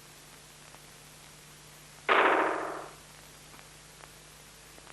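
A single sudden clang about two seconds in, a pitched ring that fades out within about a second, over a faint steady hum.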